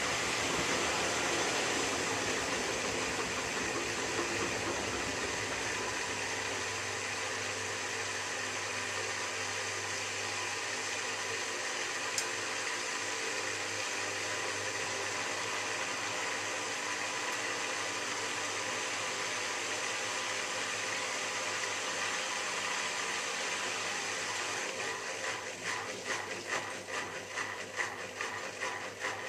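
Miele W3744 washing machine taking in water, a steady hiss over a low hum. About 25 seconds in, a regular pulsing begins as the drum starts turning.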